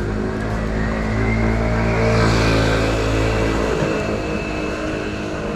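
A motor vehicle's engine running as it passes close by, loudest about two seconds in, over city street noise.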